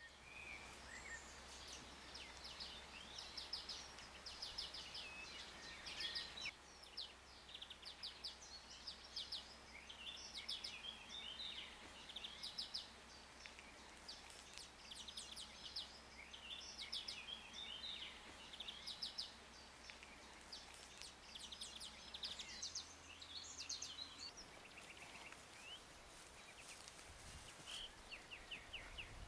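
Songbirds singing, a steady stream of quick repeated chirps and trills, over a faint low hum.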